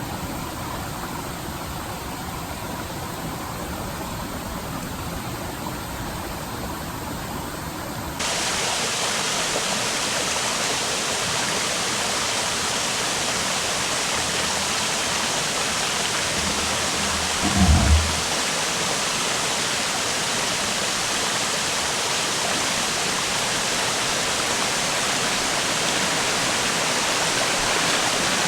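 Steady rushing of a river flowing over rocks. It jumps abruptly louder about a third of the way in, and a brief low thud comes about two-thirds through.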